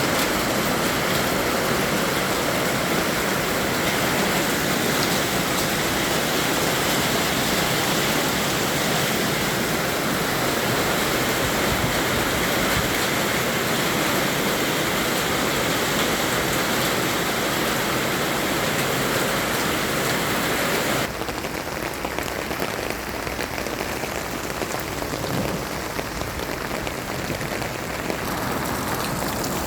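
Heavy rain falling and pattering on surfaces, a steady dense hiss. About two-thirds of the way through it turns a little quieter and duller.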